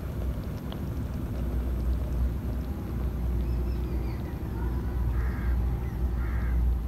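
A steady low rumble, with a bird calling twice in short harsh calls about five and six seconds in.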